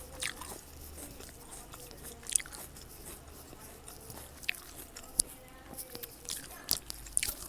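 Close-miked eating of fresh fruit: chewing with a handful of short, crisp bite and crunch sounds scattered through.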